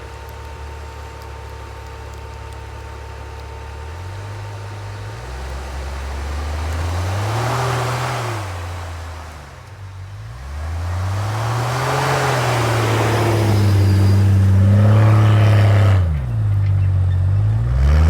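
Off-road 4x4's engine revving up and down in several surges, then held at high revs with a brief dip near the end, as it pushes through deep snow.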